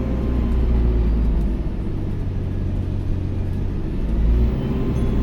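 ADL Enviro400H City hybrid double-decker bus running, heard from on board: a steady heavy low rumble with a faint whine running through it, the hoover-like sound this bus is known for.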